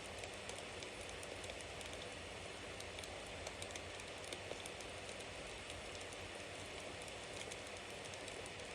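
Bonfire burning, with a steady hiss and frequent small crackles and pops from the burning wood.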